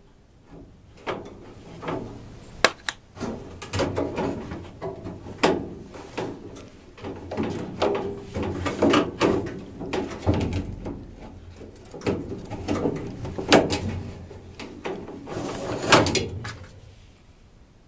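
Irregular knocks, clicks and scraping as a furnace filter and the furnace's sheet-metal housing are handled, with the filter being worked into its slot.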